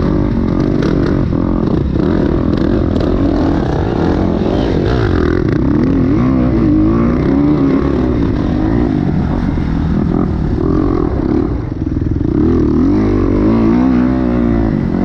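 Kawasaki KX250X four-stroke single-cylinder dirt bike engine being ridden hard, revving up and dropping back over and over as the throttle opens and closes.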